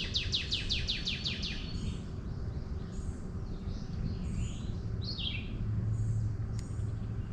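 Wild birds singing: one bird gives a fast run of about a dozen quick down-slurred notes at the start, then scattered chirps and short calls follow, over a steady low outdoor rumble with a low hum that strengthens after the middle.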